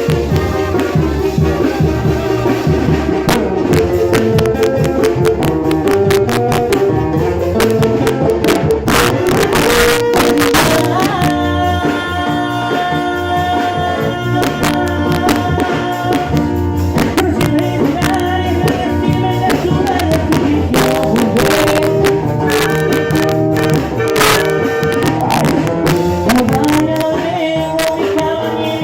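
A band playing regional Mexican music with brass and percussion at a sound check.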